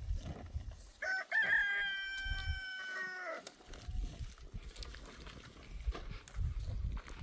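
A rooster crowing once, a single drawn-out call lasting about two and a half seconds that drops in pitch at the end, over low rumbling background noise.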